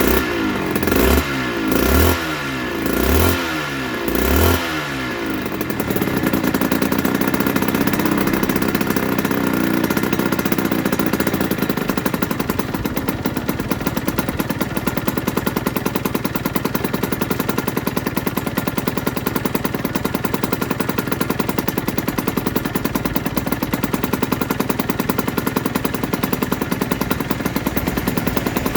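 Aprilia RS125's single-cylinder two-stroke engine revved in short blips about once a second, then settling about five seconds in to a steady, fast-pulsing idle.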